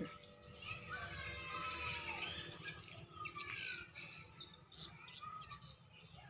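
Several birds calling and chirping, with short gliding whistles that overlap one another.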